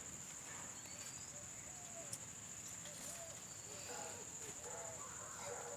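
Steady high-pitched insect drone, like crickets or cicadas, with faint voices in the background, clearer in the second half.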